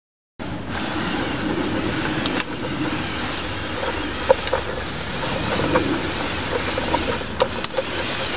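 Remote-controlled Lego Technic Tatra 815 6x6 trial truck driving, its small electric motors and plastic gearing giving a steady whirr with a few short clicks.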